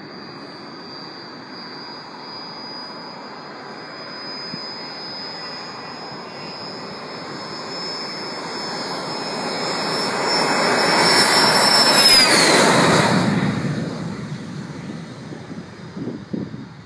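Cessna Citation business jet's twin turbofan engines at full takeoff power during the takeoff roll: a high whine over a rushing roar that grows louder as the jet approaches, peaks about twelve seconds in, where the whine drops in pitch as it passes, then fades away.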